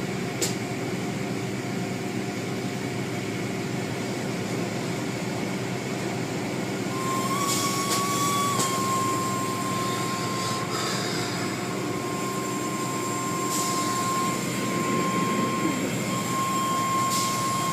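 Automatic car wash machinery running, heard from inside the car: a steady loud mechanical drone with a held high whine, and a few short bursts of noise every few seconds.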